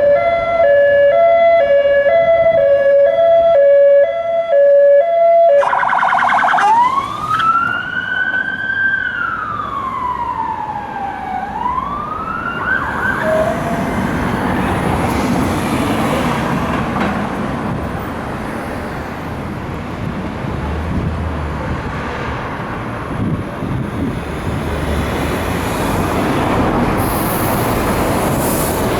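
Police response car's siren sounding an alternating two-note pattern, switching about six seconds in to a slow rising-and-falling wail that stops about 13 seconds in. After that come engine and road noise of the moving traffic.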